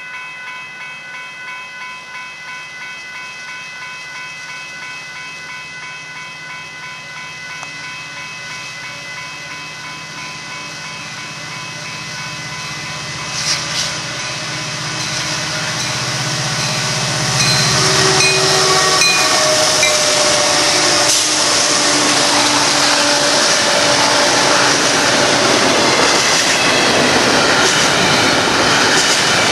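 Union Pacific diesel locomotives approaching and passing, their engine rumble growing louder through the middle, followed by a long intermodal container train rolling by with loud steady wheel-on-rail noise and clatter.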